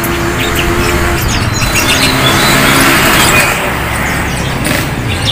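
Caged songbirds chirping over the steady hum of a motor vehicle engine, whose pitched drone fades after about three seconds.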